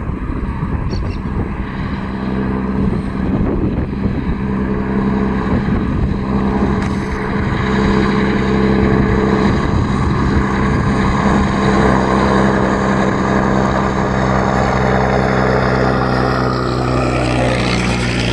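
Propeller aircraft engines running with a steady droning tone that grows louder over the first several seconds and then holds, the pitch dropping slightly near the end.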